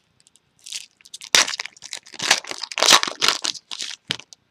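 Foil trading-card pack wrappers crinkling and crunching in the hands as packs are handled and opened, a string of irregular crackles starting about half a second in.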